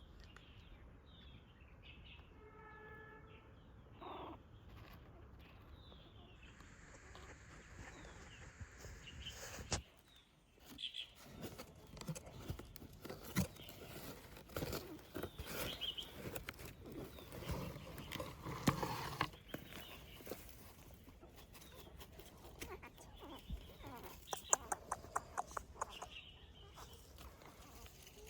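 Small birds chirping in short falling calls, with rustling and clicking noises through the later part and a quick run of clicks near the end.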